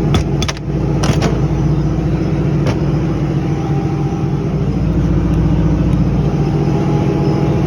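Steady drone of an engine or machine running in the background. Over it, a few sharp metal clicks and knocks in the first three seconds, as the pump's air motor housing is opened and its parts are handled.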